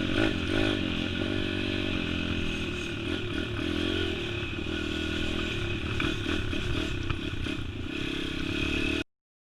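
Small pit bike engine running with slight rises and falls in revs, with some clattering. It cuts off abruptly about nine seconds in.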